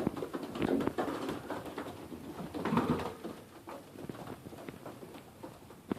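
Young racing pigeons cooing in a loft, with scattered sharp taps and scuffles throughout.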